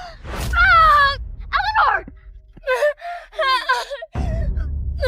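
People gasping and crying out in alarm: a string of short, high-pitched vocal cries and gasps, with a low steady rumble coming in about four seconds in.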